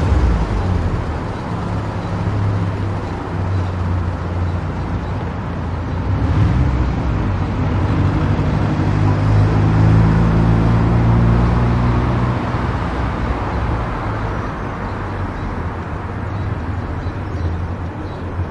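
Car driving along a road: steady engine and tyre noise, with the engine note climbing and growing louder around the middle and easing off again after about twelve seconds.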